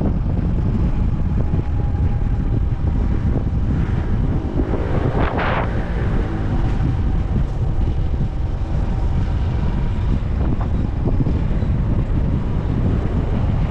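Honda TMX 125 Alpha motorcycle running at riding speed, its engine heard under heavy wind rumble on the microphone. A brief, louder sound with shifting pitch comes through about five seconds in.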